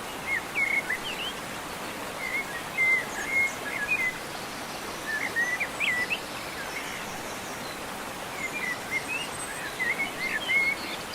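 Bird chirps in four quick clusters of short gliding notes, over a steady background hiss.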